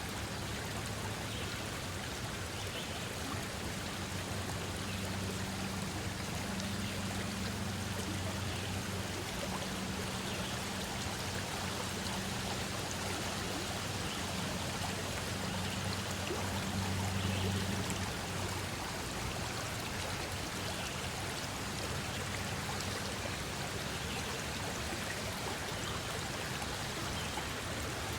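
Stream of water flowing steadily, with a low hum underneath that swells a little past the middle.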